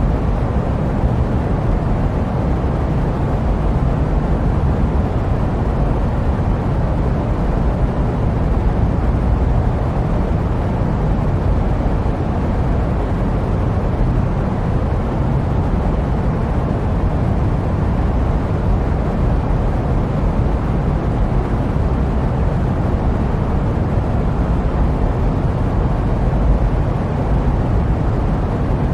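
Steady jet-plane noise used as sleep white noise: an even, deep hiss, heaviest in the low end, that does not change.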